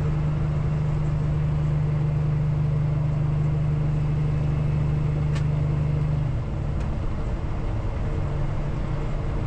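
Peterbilt semi truck's diesel engine droning steadily under way, heard from inside the cab. The drone drops off about six seconds in and picks up again near the end, with a single click partway through.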